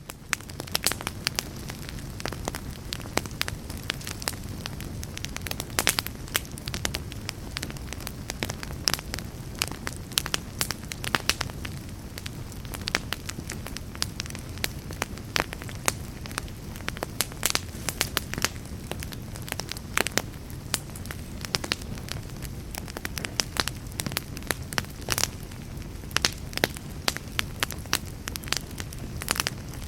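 Burning logs in a fireplace, crackling and popping: many irregular sharp snaps over a steady low rumble of the flames.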